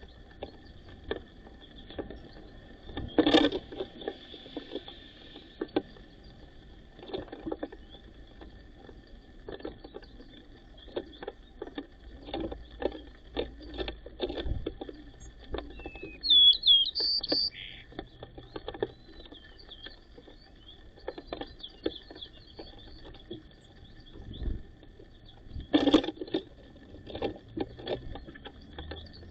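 White-crowned sparrows feeding: scattered light taps and clicks throughout, with two louder knocks, one near the start and one near the end. A brief burst of chirping comes about halfway through.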